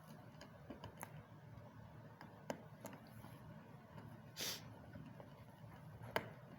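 A pet parrot's claws and beak clicking and scratching faintly as it climbs, a few scattered ticks, with a short breathy rasp about four and a half seconds in.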